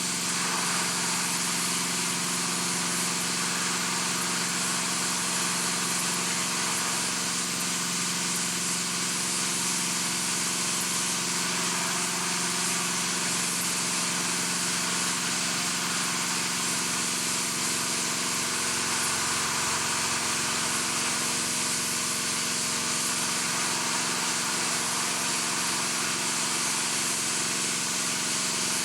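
Steady industrial machinery running: a constant multi-tone hum over a loud hiss, with no breaks or impacts.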